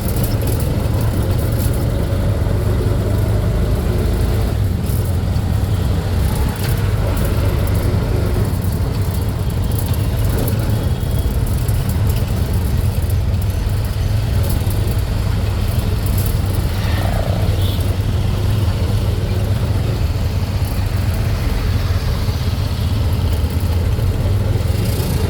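Steady low rumble of a road vehicle on the move, with engine and road noise.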